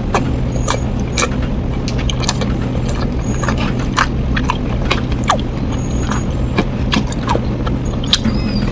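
Close-up chewing of crispy fried snacks: irregular sharp crunches and mouth clicks, many in a row, over a steady low hum.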